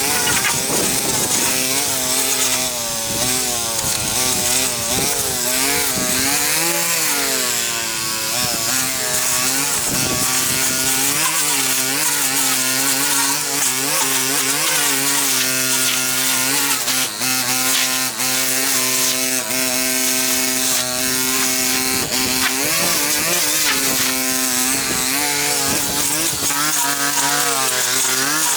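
Small petrol engine of a handheld cutting tool running continuously, its pitch rising and falling as the throttle is worked, with a hissing cutting noise over it.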